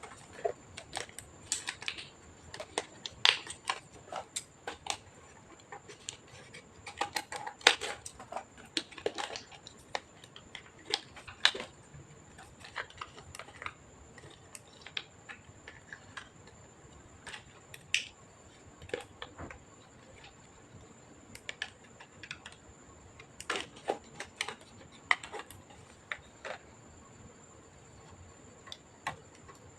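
Irregular small clicks and taps of plastic and metal parts being handled during hands-on disassembly of an all-in-one PC, some in quick clusters, with a faint steady high whine underneath.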